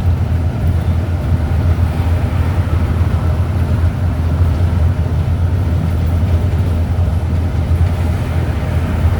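Strong wind blowing, heard as a steady low rumble.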